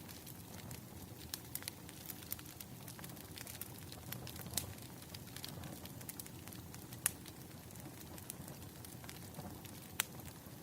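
Wood fire crackling: a steady low rustle with frequent sharp pops, a few louder ones about four and a half, seven and ten seconds in.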